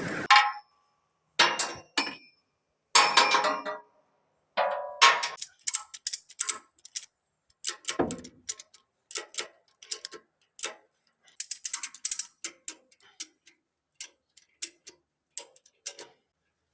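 Irregular metallic clicks and clatters, some in quick ratcheting clusters, with a heavier clank about eight seconds in: tie-down hardware being worked and tightened.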